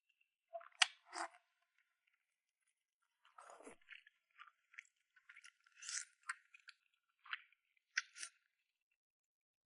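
Close-up eating sounds of someone chewing soft, gelatinous braised soft-shelled turtle: scattered quiet wet clicks and smacks of the mouth, with a pause of about two seconds near the start.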